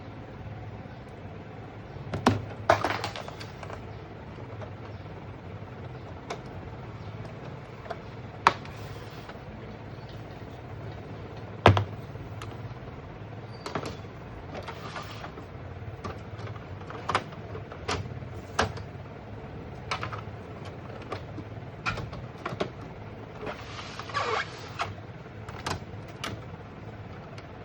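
Irregular clicks, knocks and short rustles of plastic printer parts being handled during repair, over a steady low hum.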